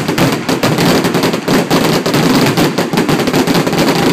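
Aerial fireworks going off in a dense, continuous barrage: many overlapping bangs and crackling bursts, several a second.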